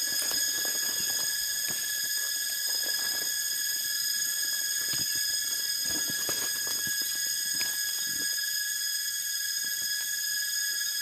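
Steady high-pitched insect drone from the forest, one unchanging whine with several tones, with scattered soft taps and rustles over it.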